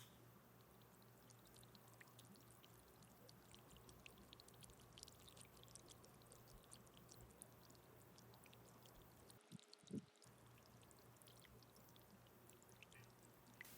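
Near silence: faint scattered ticks and crackles over a low hum, with one soft thump about ten seconds in.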